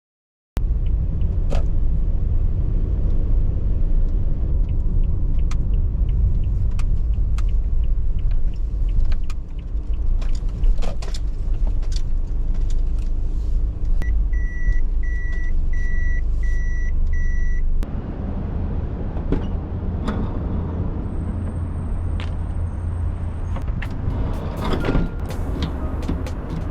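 Car driving, with a steady low road and engine rumble and scattered small clicks and knocks. Between about 14 and 18 seconds in, a run of about five evenly spaced high beeps sounds. The rumble changes character abruptly a little after that.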